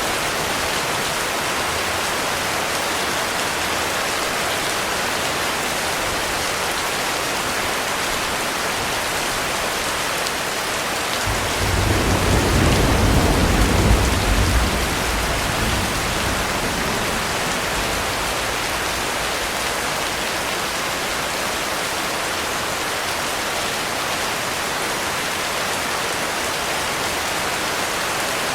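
Heavy rain falling steadily, with a rumble of thunder that builds about eleven seconds in, peaks for a few seconds and dies away.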